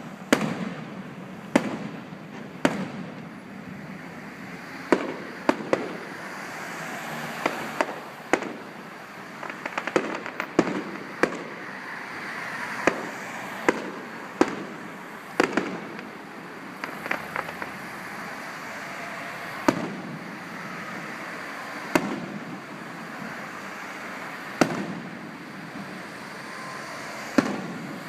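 Fireworks display: shells bursting in sharp bangs at irregular intervals, sometimes several in quick succession, over a steady hiss between the bangs.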